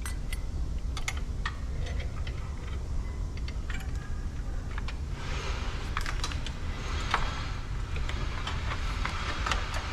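Scattered light metallic clicks and taps as the battery hold-down bracket and its rods are handled and set back into their groove, with a few short scrapes, over a steady low rumble.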